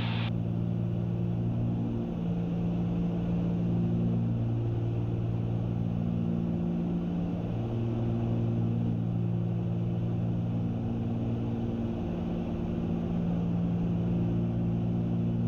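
Cabin drone of a Cessna 310 twin-engine piston airplane in cruise: a steady engine and propeller hum, its low tones swelling and fading every few seconds.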